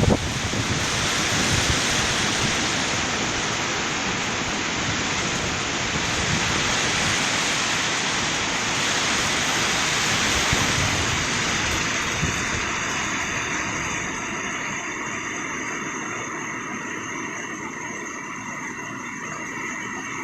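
Heavy rain pouring down in strong wind, a steady dense hiss that eases a little over the second half.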